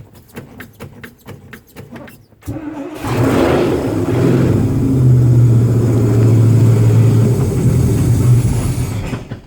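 Chrysler 318 V8 cold start after nearly two weeks of sitting, the carburettor primed with a few pumps of the pedal: the starter cranks in rapid even beats for about two and a half seconds, then the engine catches and runs loud and steady. Its sound drops away shortly before the end.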